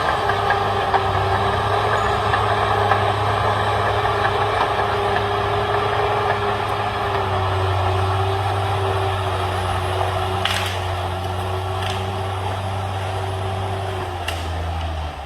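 CAT D6R XL bulldozer's diesel engine running steadily with a steady whine over it. There are a couple of faint knocks about two-thirds through, and the engine drops off near the end.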